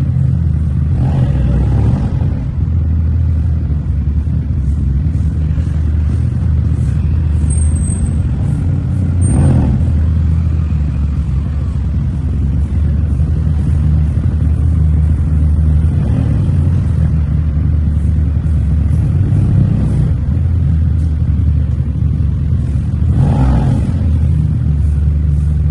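Motorcycle engine running steadily at a near-constant pitch under wind and road noise while riding, with a few brief swells.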